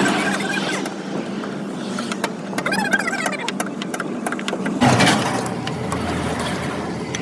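Roadside vehicle and engine noise with scattered clicks. The sound shifts to a lower, steadier hum about five seconds in.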